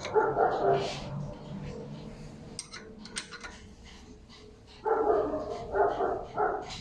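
A dog barking in short bursts: once at the start, then three barks in quick succession near the end.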